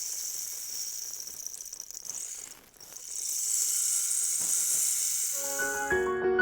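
Rain stick being tipped, its seeds trickling down inside in a steady rain-like hiss. The hiss dies away a little under three seconds in, starts again, and stops near the end.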